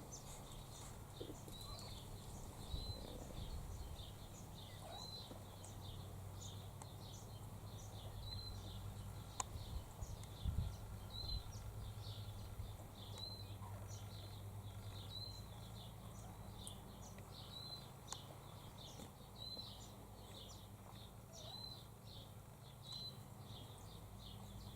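A bird repeating one short high note every one to two seconds, faint, over a low steady hum.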